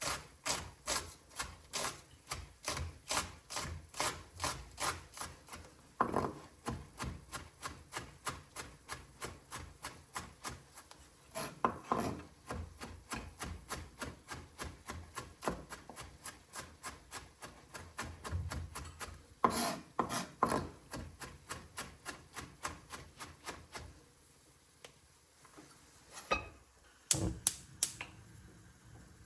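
Kitchen knife finely chopping onion on a cutting board: rapid, even knocks about four a second with some scraping, stopping a few seconds before the end, then a few separate louder knocks.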